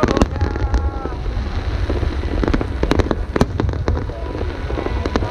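Fireworks display: aerial shells bursting in a rapid string of sharp bangs and cracks over a continuous low rumble, the densest and loudest cluster about three seconds in.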